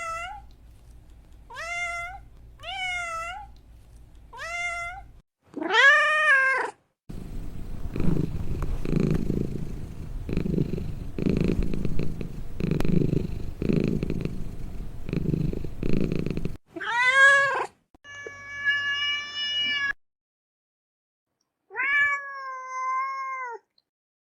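Domestic cats meowing: several short meows, then about nine seconds of low, rhythmic purring, then more meows, one of them long and drawn out.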